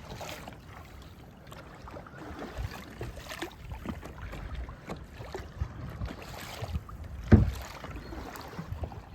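Kayak paddle strokes dipping and splashing in the water, irregular and uneven, with one sharp knock about seven seconds in.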